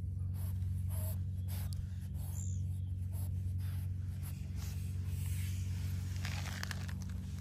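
A hand stroking a cat's fur close to the microphone makes scratchy rubbing strokes, coming thicker near the end. Under them runs a steady low hum.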